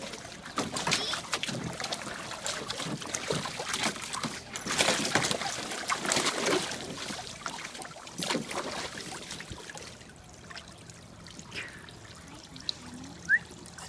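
Water splashing and trickling in irregular bursts, busiest in the first half and thinning out later, with one short high squeak near the end.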